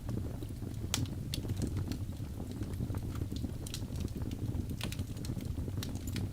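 Birch logs burning in a fireplace: a steady low rumble of the flames with sharp, irregular crackles and pops, the loudest about a second in and again near five seconds.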